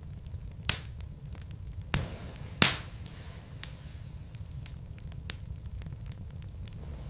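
Wood logs burning in a fireplace, crackling with scattered sharp pops over a steady low rumble. The loudest pop comes about two and a half seconds in.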